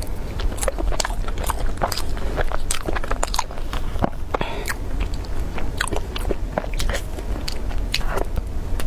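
A person chewing and biting food close to the microphone, with many short, sharp crackles throughout.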